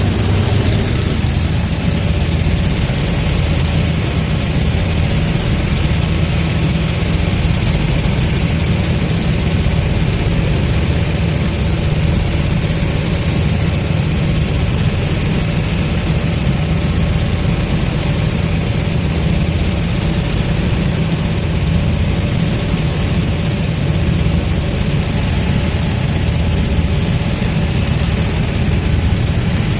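Helicopter in flight: loud, steady engine and rotor noise with a thin, steady high tone above it.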